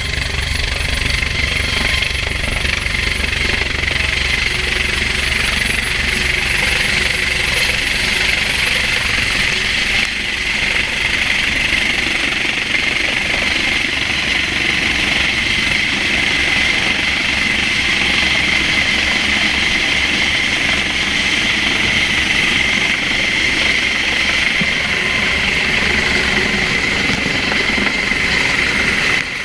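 Helicopter hovering close by during a winching operation: steady, loud rotor and engine noise with a rapid low pulsing from the blades.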